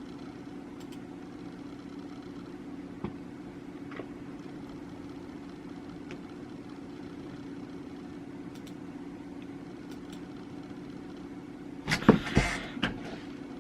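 A steady mechanical hum with a pitched drone, broken by two faint clicks. About twelve seconds in come several loud knocks and bumps.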